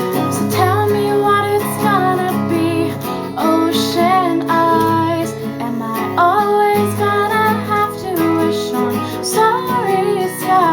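Acoustic guitar strummed with a female voice singing a melody over it.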